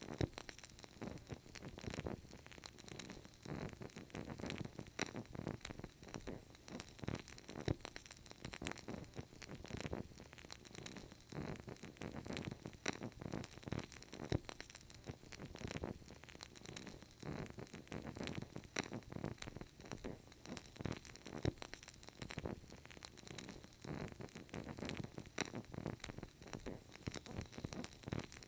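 Burning candle crackling softly: a steady faint hiss with many small irregular clicks and pops.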